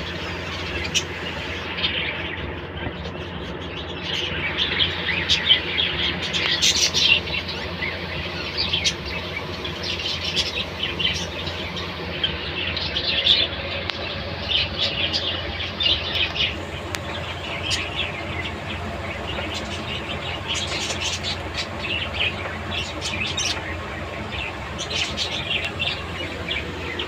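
Budgerigars chirping and chattering in a busy, irregular stream of short high calls, over a steady low hum.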